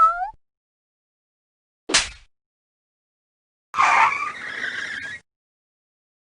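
A run of separate short sound effects with silence between them: the end of a pitched, wavering call, a sharp hit about two seconds in, and about four seconds in a noisy screech lasting about a second and a half, like car tyres skidding.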